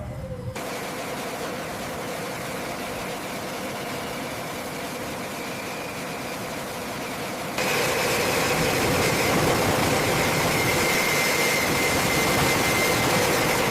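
Steady machine noise: a continuous hiss with a held whine, stepping up louder and brighter about seven and a half seconds in.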